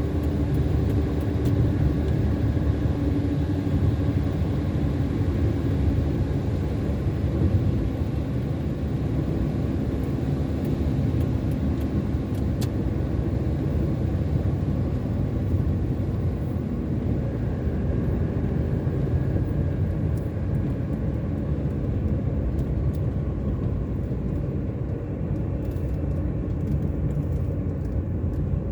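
A car driving along, with the steady low rumble of its engine and tyres on a rain-wet road.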